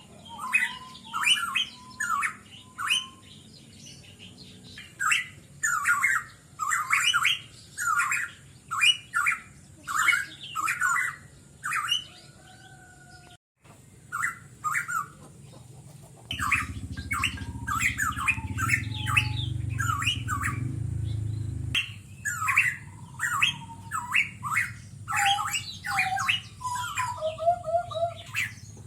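Pitohui giving harsh, squawking calls, each short and sweeping in pitch, delivered in quick runs of several with brief pauses between runs. A steady high-pitched whine runs underneath, and a low rumble comes in for several seconds past the middle.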